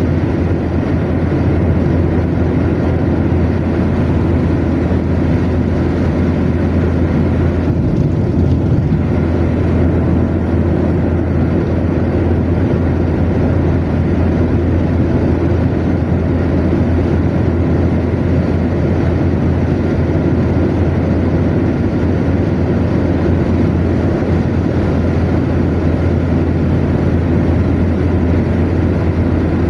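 Car cruising at motorway speed: a steady low drone of engine and tyre-on-road noise.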